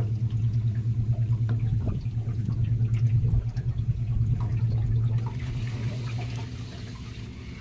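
Hangkai 18 HP two-stroke outboard running slowly in gear, a steady low hum with water sloshing around the aluminium hull; the motor eases off over the last couple of seconds as the boat nears the bank.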